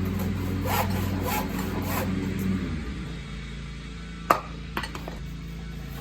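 Handsaw cutting through the notch of a pressure-treated wooden stair stringer, a few rasping strokes in the first couple of seconds, then a sharp knock about four seconds in.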